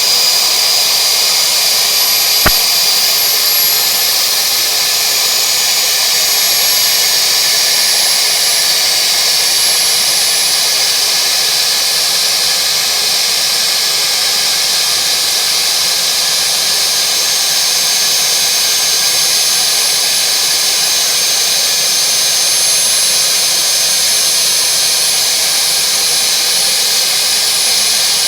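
Helicopter engine running steadily at a constant speed: a loud, even rush with thin high-pitched whines above it. A single sharp click sounds about two and a half seconds in.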